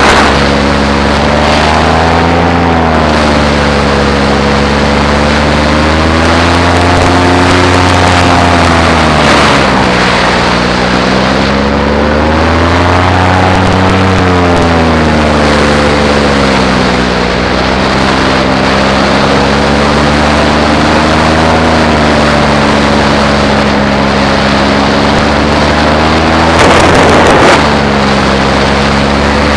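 Paramotor engine and propeller running steadily in flight, its pitch slowly rising and falling as the throttle eases and opens, with rushing air noise and a brief louder rush near the end.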